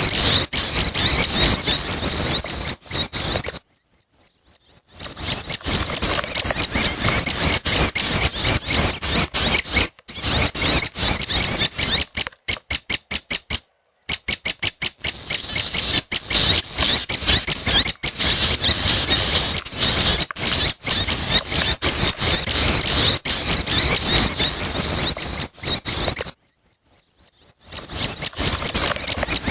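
Young prenjak (prinia) chicks' begging calls: fast, high-pitched squeaky chirping in dense runs. The chirping breaks off for about a second twice, once near the start and once near the end, and around the middle it turns briefly to evenly spaced separate chirps.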